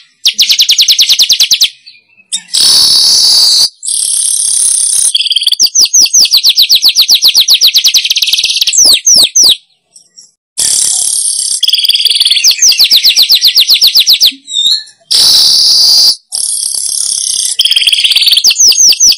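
Recorded lure song of a manyar (weaver bird), looped: fast chattering trills of about ten high notes a second alternate with wheezy, hissing buzzes, broken by short silences.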